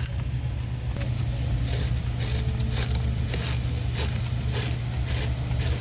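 Repeated short scraping clicks, about two a second, from hand work on a car battery terminal, over a steady low hum.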